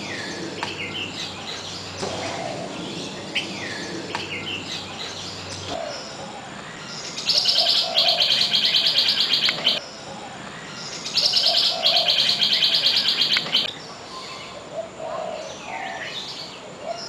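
Mixed bird calls and chirps in an aviary, with two loud, rapidly pulsing, buzzy trills of about two and a half seconds each, a little under halfway in and again about two-thirds of the way in.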